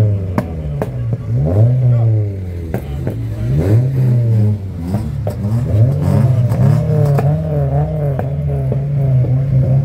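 Car engines revving hard, the pitch sweeping up and falling back about once a second, then held high and fairly steady through the second half, with scattered sharp clicks.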